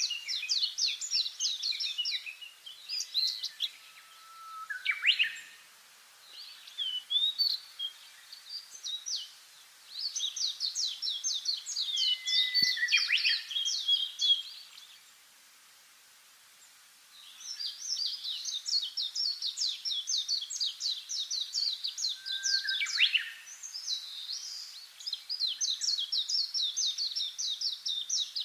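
Small songbirds chirping in long runs of rapid high notes, broken by short pauses and a brief quiet spell about halfway through. A few lower, slurred whistled notes stand out between the runs.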